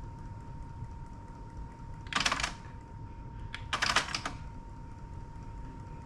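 Two short bursts of rapid clicking and rattling, about two and four seconds in, from the cassette deck being handled, over a faint steady high tone.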